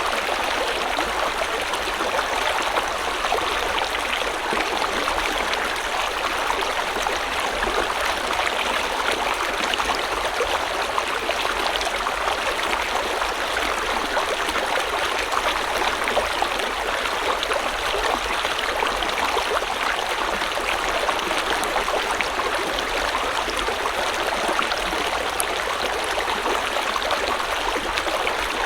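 River or stream water flowing over rocks: a steady rush with fine splashing and trickling, unchanging throughout.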